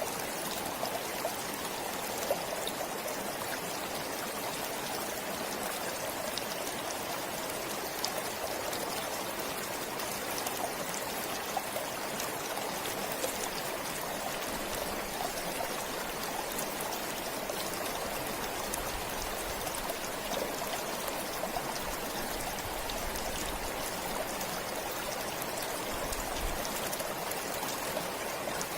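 A forest stream flowing steadily, an even rush of water with small splashes and trickles through it.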